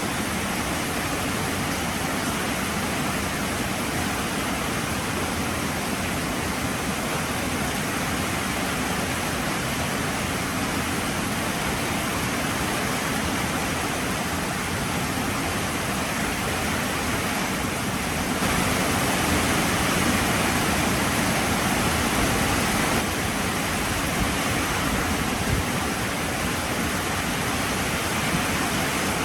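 Heavy rain pouring steadily, a dense even hiss that swells slightly louder for a few seconds about two-thirds of the way through.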